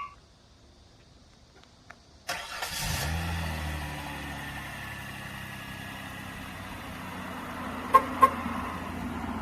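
A 2006 Hyundai Equus's engine cranks and starts on remote start about two seconds in, flares briefly, then settles into a steady idle. Two short, sharp chirps sound near the end.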